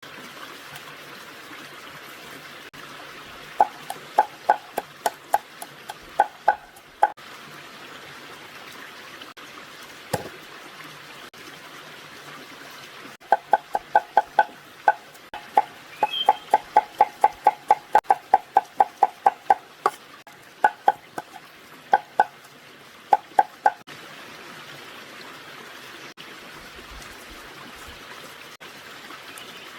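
Knife chopping on a cutting board in two quick runs of sharp strokes, a few a second, each with a short wooden ring, over a steady background hiss.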